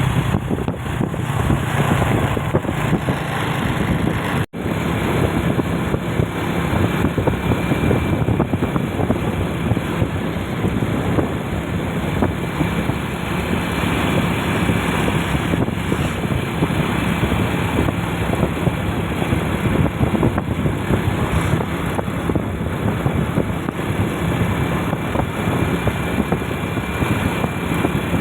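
A vehicle engine running steadily on the move, mixed with road and wind noise, with a momentary dropout of the whole sound about four and a half seconds in.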